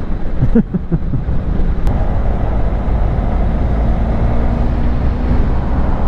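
Motorcycle riding along with a passenger: engine running steadily under heavy low wind rumble on the microphone.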